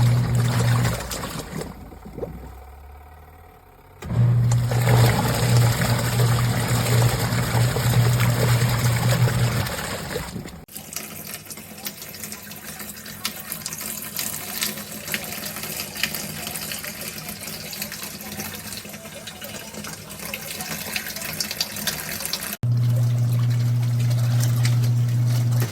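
Twin-tub portable washing machine running: a steady motor hum over water sloshing and churning in the wash tub. The sound changes abruptly a few times, with a long middle stretch where the hum is weaker and the water noise carries on.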